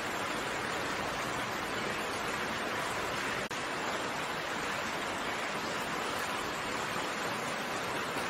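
Steady, even rain noise with no distinct drops standing out. Briefly cuts out for an instant about three and a half seconds in.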